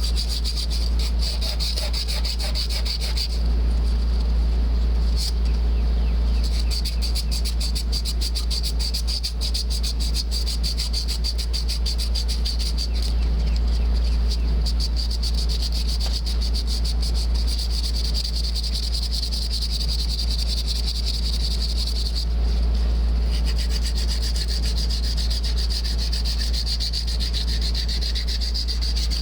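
Abrasive cloth rubbing back and forth on copper refrigerant tubing, scrubbing the pipe clean for soldering, over steady insect trilling and a constant low rumble.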